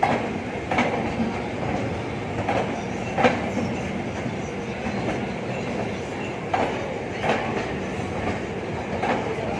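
Train running along the track, a steady rumble with wheels clacking over rail joints in pairs several times.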